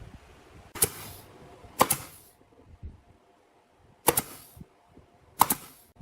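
Pneumatic nail gun firing four times at uneven intervals, each shot a sharp crack followed by a short hiss of air.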